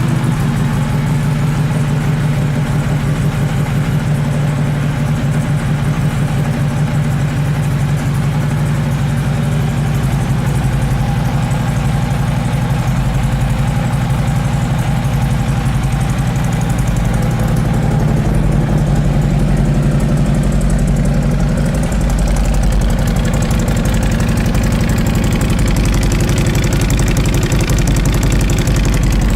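Harley-Davidson Road Glide Special's V-twin engine idling steadily through wrapped Bassani slip-on exhaust pipes.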